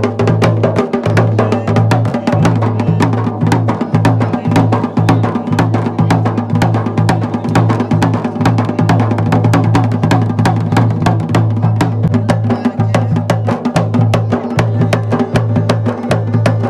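Music with rapid, evenly spaced drum strokes, about four or five a second, over a low sustained tone.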